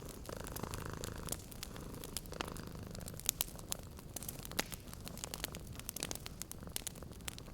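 A cat purring steadily, with a wood fire crackling and snapping in many sharp, irregular pops.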